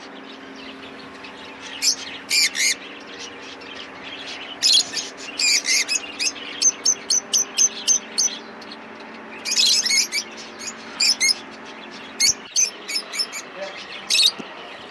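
Small caged birds at a bird market chirping in short, high calls, in clusters and quick runs, over a steady low hum.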